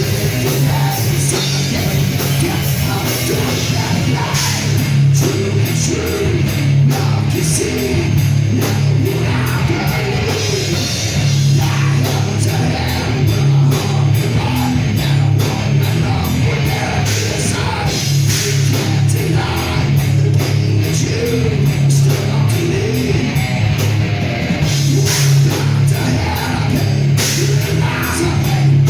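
A live heavy rock band playing loudly, with distorted guitar, drum kit and singing.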